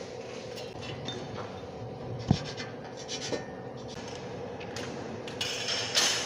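Punch press humming steadily while steel channel is worked, with one sharp knock about two seconds in, a lighter one a second later, and steel scraping near the end.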